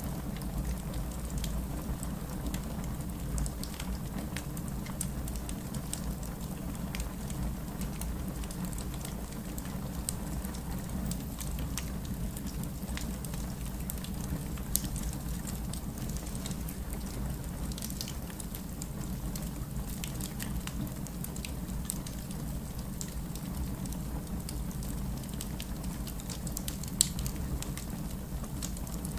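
Wood fire crackling in a fireplace: a steady low rumble of the flames with scattered small pops and snaps, one louder pop near the end.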